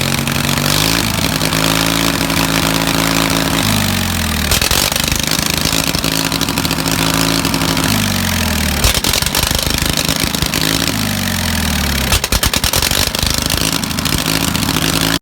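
Old tractor's gasoline engine running just after being jump-started, revved up and back down several times. It stumbles briefly near the end.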